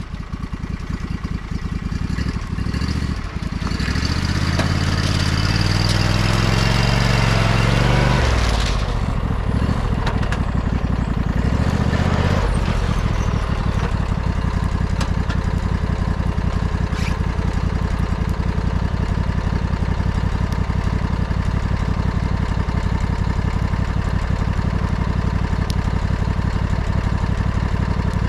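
Old lawnmower engine revving up with rising pitch over the first several seconds, dropping back about nine seconds in, then running steadily.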